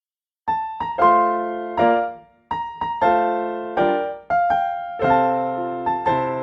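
Keyboard music: piano-toned chords and melody notes, each struck and fading, starting about half a second in.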